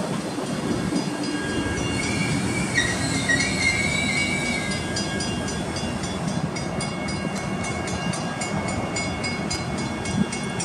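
Metra bilevel commuter train cars rolling slowly along the platform track, with a wavering wheel squeal about two seconds in. Then a fast, even high ticking comes in over the rumble.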